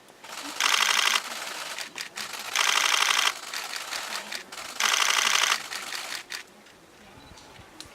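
Camera shutter firing in rapid continuous bursts: three bursts of fast, even clicking, each lasting a little over half a second, about two seconds apart.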